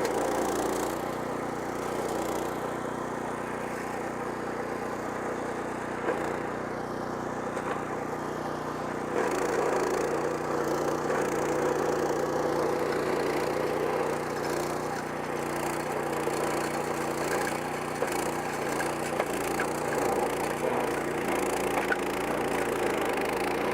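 Power King PK0803 stump grinder's Kohler 14 HP single-cylinder engine running under load while the carbide-toothed cutter wheel grinds into a wooden stump, chipping and splintering the wood. The sound grows a little louder about nine seconds in.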